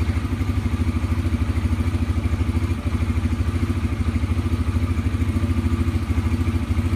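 2017 Yamaha TTR 125's air-cooled single-cylinder four-stroke engine idling steadily with an even, fast pulse, just started after an oil change.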